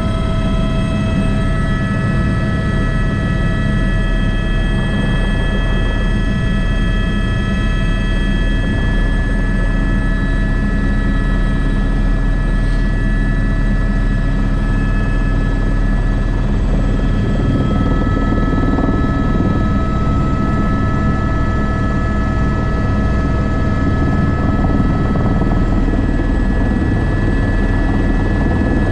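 Airbus AS350 B3 (H125) helicopter running steadily in flight: a constant turbine whine over the low, dense beat of the rotor.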